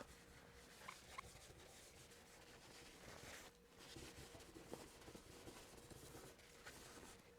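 Faint rubbing of a cloth wiping Goo Gone over the painted petrol tank to lift sticky pinstripe-tape residue, with a couple of light ticks about a second in.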